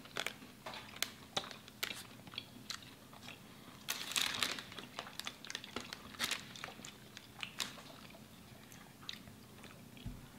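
Someone biting into and chewing a chocolate chip cookie: a string of small crunches and mouth clicks, thickest about four seconds in and again around six seconds.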